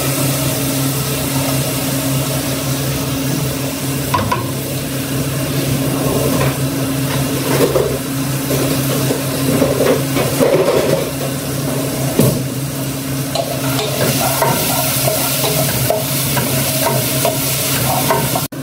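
Onion and garlic sizzling in hot oil in an aluminium pot, stirred with a spatula. A steady low hum runs underneath.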